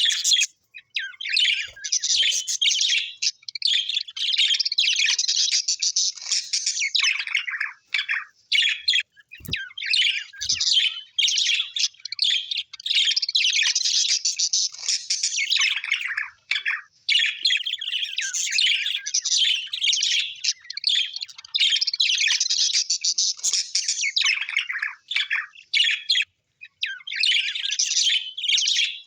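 Birds chirping and chattering in a fast, high-pitched stream of calls, with a few short breaks.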